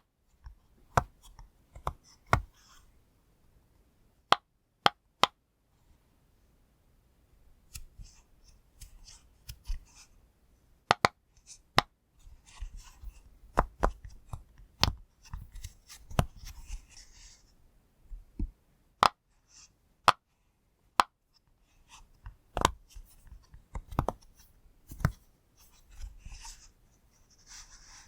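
A pop toy being pressed, giving sharp single pops at irregular intervals, some in quick runs of two or three, with soft rubbing and handling noise between them.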